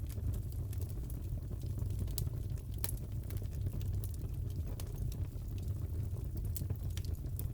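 Crackling wood fire in a fireplace: a steady low rumble of flames with irregular sharp pops and crackles.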